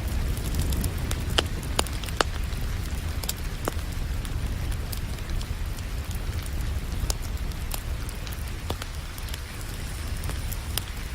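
Wood fire crackling with irregular sharp pops over a steady hiss of rain and a low, continuous rumble.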